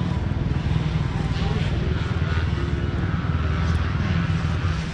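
Motocross bike's engine running steadily, heard on board.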